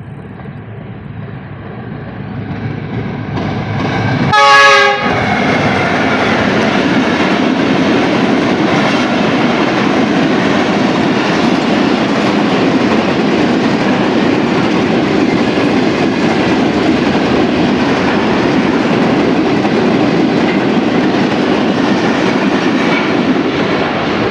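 Pakistan Railways diesel-hauled express train approaching, its wheel and rail noise growing louder. About four seconds in the locomotive gives one short horn blast, the loudest moment. The coaches then run close past with loud, steady wheel-on-rail noise.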